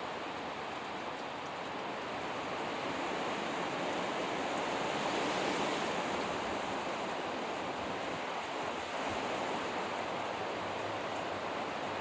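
Hurricane wind rushing steadily, swelling into a stronger gust about five seconds in and then easing back.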